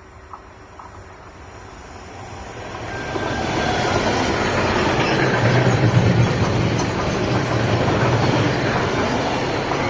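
A train approaching on the line, growing steadily louder over the first few seconds, then running past close by with a steady rumble of wheels on the rails.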